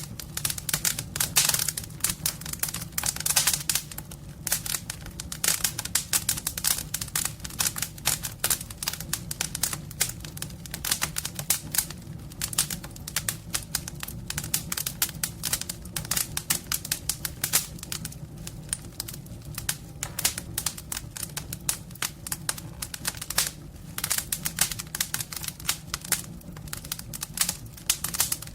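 Wood fire crackling and snapping in a homemade fireplace, a dense run of irregular sharp pops, over a steady low hum.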